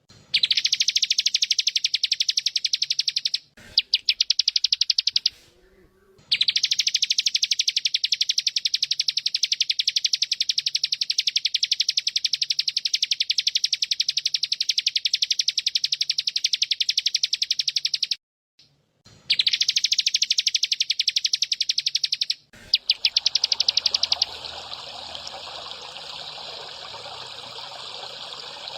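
Long, loud runs of a very rapid, even buzzing trill from a bren cicada, broken by a few short pauses, the longest run lasting about twelve seconds. About four seconds before the end the buzzing stops and water trickling takes over.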